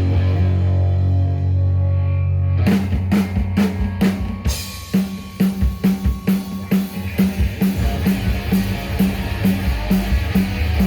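Live rock band: a low bass-and-guitar chord rings out, then about two and a half seconds in the drum kit comes in with a quick fill and settles into a steady beat with bass drum and snare.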